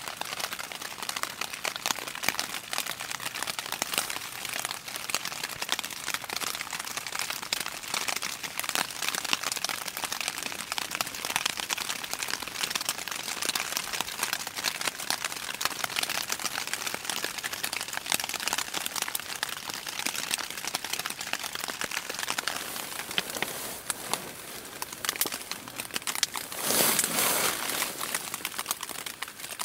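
Steady rain falling, a dense, even patter of drops, with a louder crinkling rustle near the end.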